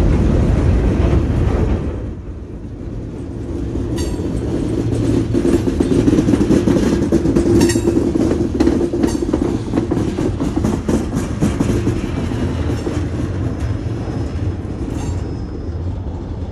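Freight train cars rolling past close by: a steady, loud rumble of steel wheels on the rails with scattered sharp clicks, dipping briefly about two seconds in.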